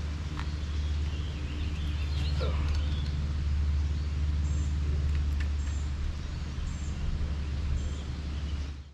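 A steady low engine-like hum, with a few faint bird chirps over it; it cuts off suddenly near the end.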